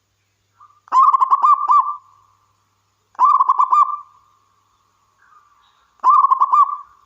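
Zebra dove (local perkutut) singing its cooing song three times. Each phrase is a quick run of rolling, bubbling coo notes about a second long, with a couple of seconds between phrases.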